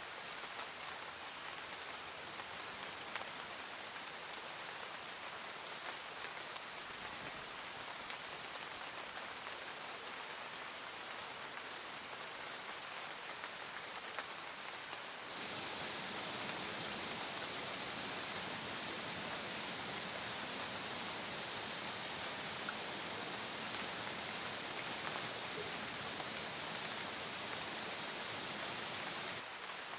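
Steady rain falling, with scattered individual drops ticking. About halfway through, a louder, hissier layer of rain sets in suddenly, and it cuts off abruptly just before the end.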